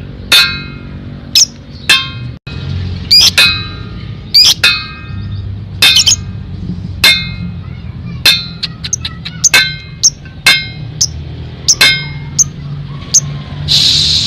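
Lovebird giving sharp, high chirps at irregular intervals, about one a second, breaking into a rapid chattering trill near the end. A low background music bed runs underneath.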